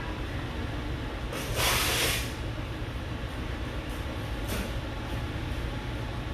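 Spray hissing from a nozzle: one burst of about a second, then a short second burst a few seconds later, over a steady low room hum.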